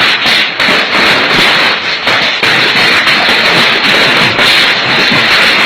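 Hailstones pelting down heavily on a hard surface, a loud, dense, unbroken clatter of countless impacts.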